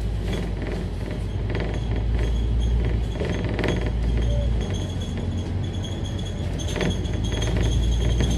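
Inside a moving Scania K310UD double-decker bus: a steady low engine and road rumble, with interior fittings rattling and clinking and a faint high whine.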